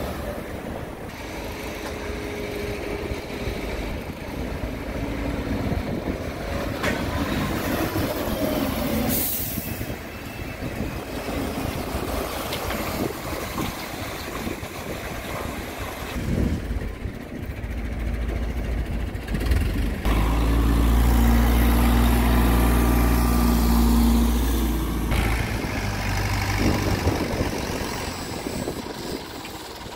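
Truck engine running, with a short hiss about nine seconds in. About two-thirds of the way through, the engine runs louder and steadier for about five seconds.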